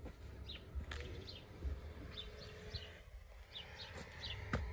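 Small birds chirping in the background: short, high chirps that drop in pitch, repeated every half second or so. Under them is a low rumble, with a few sharp clicks; the loudest click comes near the end.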